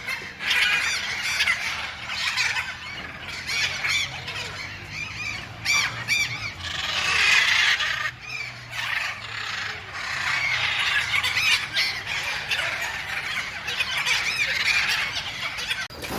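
Many birds squawking and chattering at once, shrill calls overlapping without a break.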